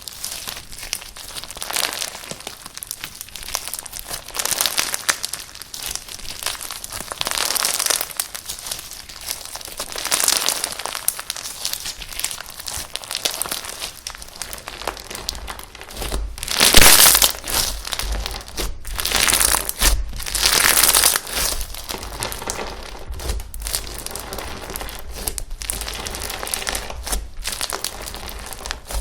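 Slime being squished and kneaded by hand, a wet crackling and popping that comes in irregular bursts. The loudest bursts come a little past halfway.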